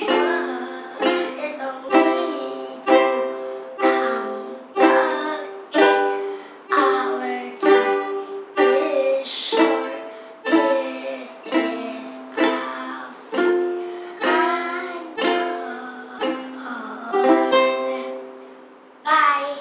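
Ukulele strummed in a steady rhythm, a chord about once a second, with a final strum near the end left to ring out.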